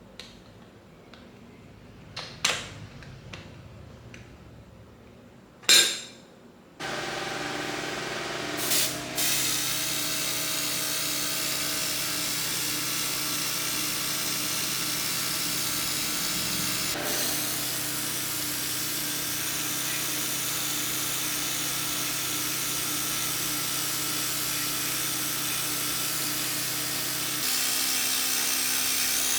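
A few sharp clicks and knocks, then an electric power tool starts about seven seconds in and runs steadily at an even pitch. Its note shifts slightly near the end.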